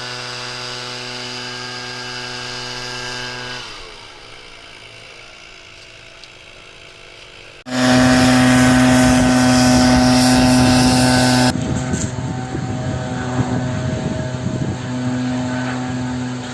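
An engine running steadily at a constant pitch, in several edited segments. It turns quieter about four seconds in, then returns much louder with a rushing noise about eight seconds in.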